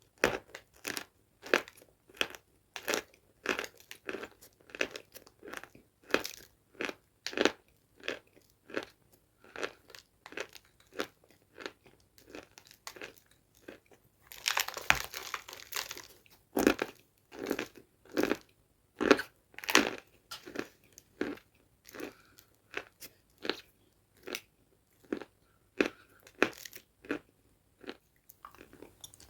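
Close-miked chewing of a dry, crunchy food: a steady run of sharp crunches, about two a second, with a brief rustling stretch about halfway through.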